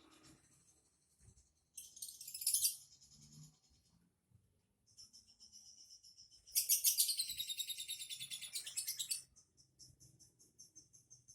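A songbird singing in high-pitched, rapid chirps and trills. The loudest phrase is a dense trill lasting about two and a half seconds, starting about six and a half seconds in.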